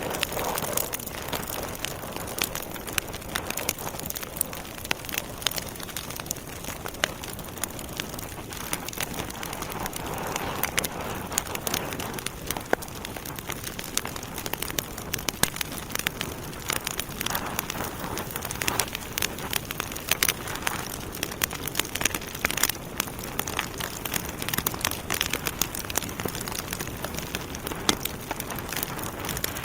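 Wood fire burning in a fireplace, with a steady hiss and frequent irregular sharp crackles and pops from the logs.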